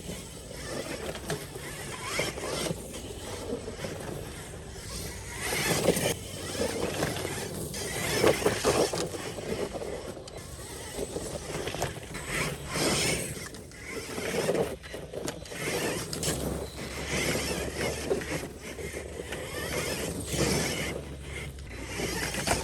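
1/10-scale RC rock racer driven fast over rough dirt and rocks: its electric drivetrain whirring, rising and falling with the throttle, and its tyres scrabbling on the ground, with occasional knocks from bumps and landings.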